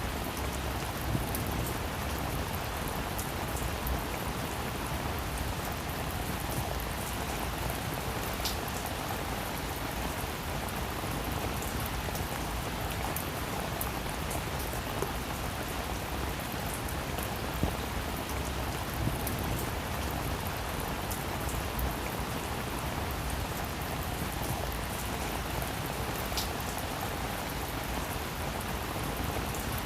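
Steady rain falling on a roof, an even hiss with individual drops ticking through it.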